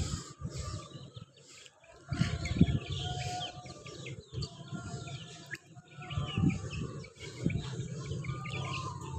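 Many small birds chirping in quick, short calls, with a few longer held notes among them and low rumbles on the microphone now and then.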